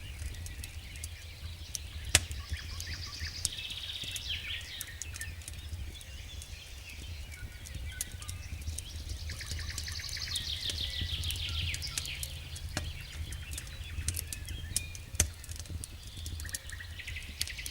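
Wood fire crackling in a fireplace, with scattered clicks and a couple of sharp pops over a steady low rumble, while small birds sing repeated high trills in the background.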